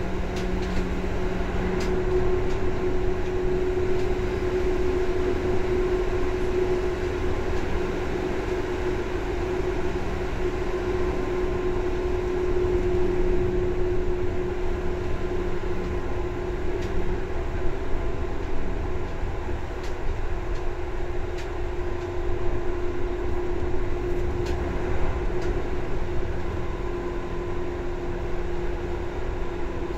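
Seibu 2000 series electric commuter train heard from inside the car while running: a steady rumble of wheels on rail under a steady whine from the traction motors and gears, with a few faint clicks. Near the end the whine drops slightly in pitch.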